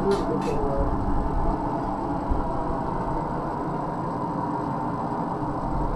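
Steady rushing background noise of a forge blowing while the metal heats, with two light metallic taps right at the start.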